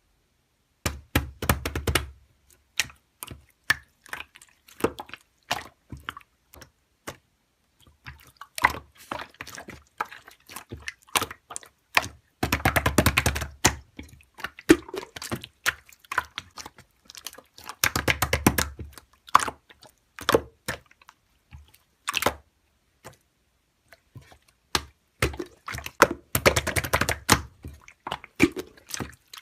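Hands squeezing and poking slime: a steady run of sticky clicks and pops, broken several times by a few seconds of dense squishing.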